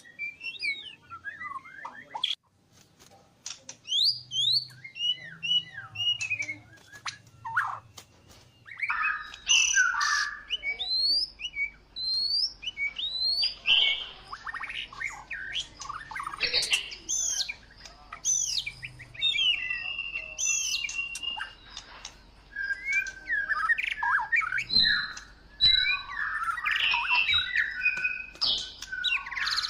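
White-rumped shamas (murai batu) calling and singing: a run of quick whistled notes and rising and falling chirps, sparse for the first several seconds and much busier from about nine seconds in.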